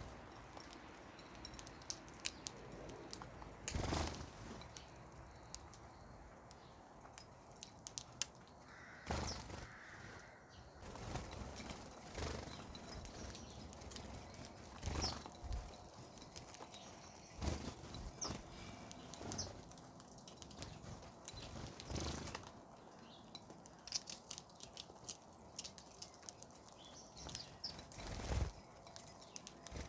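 Birds chirping at a feeding spot, with several brief bursts of wing-flapping and short knocks scattered through.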